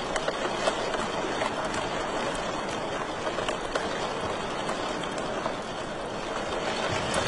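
Wood fire crackling in a fireplace: a steady hiss with many small pops and crackles scattered through it.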